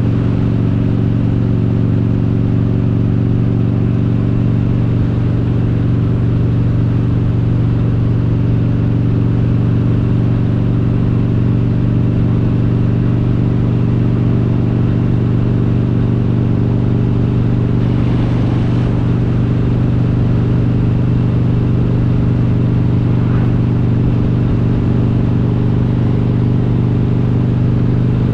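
Harley-Davidson Road King's S&S 95-cubic-inch V-twin with Super Stock heads running at a steady cruise, an even deep drone with no shifting or revving.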